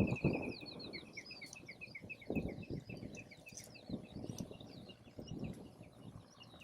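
Wild birds singing: one gives a quick run of repeated short notes that slows and drifts slightly lower over the first few seconds, with other chirps above it. Low rushing gusts of wind on the microphone come and go and are the loudest sound.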